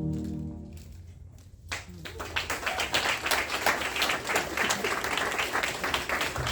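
A concert band's last sustained chord fades out in the first second, and after a brief hush an audience breaks into steady applause.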